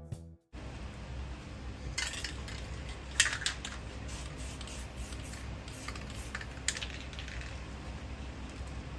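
Short hisses from an aerosol spray paint can, several in a row, with light clicks, over a low steady hum.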